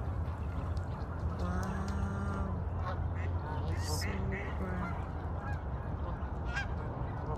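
A large flock of geese honking, many short calls from different birds overlapping over a steady low rumble.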